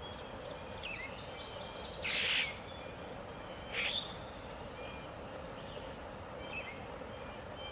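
Birds calling: scattered short, high chirps over a steady background, with two louder, noisier calls about two and four seconds in.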